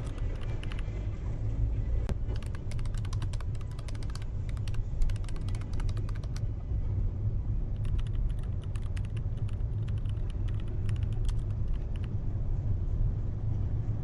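Car driving, heard from the dashcam inside: a steady low rumble of engine and road, with two long spells of rapid clicking and creaking from the car's interior or the camera mount.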